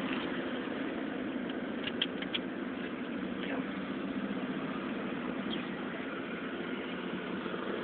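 Car engine and road noise heard from inside the cabin, a steady hum, with a few faint clicks about two seconds in.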